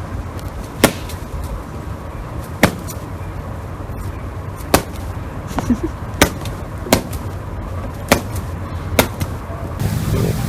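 A series of sharp taps or knocks, about seven of them at irregular intervals of one to two seconds, over a steady low hum.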